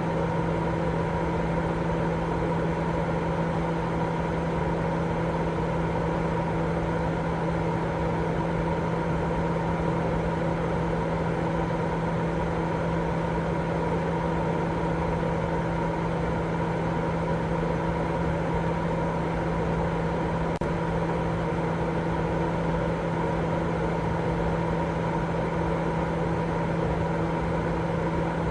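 Continuous sleep-aid noise: a steady, unchanging hiss weighted toward low and middle pitches, with a steady low hum running through it, like a running fan or idling motor.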